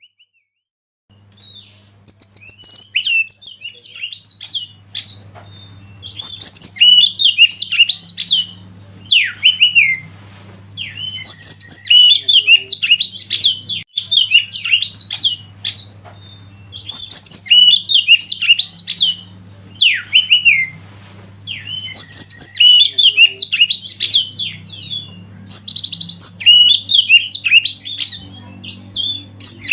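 Oriental magpie-robin (kacer) singing loud, rapid phrases of whistles and downward-sliding notes, one burst roughly every four to five seconds, with a steady low hum underneath.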